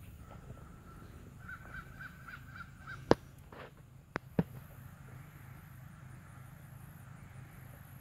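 A bird calling outdoors in a quick run of about six short notes, followed by three sharp knocks, the first the loudest and the other two close together, over a low steady hum.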